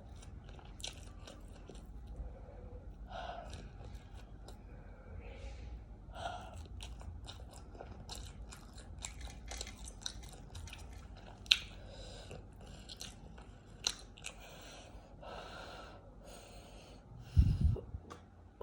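Close-miked eating: chewing with many wet mouth clicks and smacks and some crunching. A heavy low thump comes near the end.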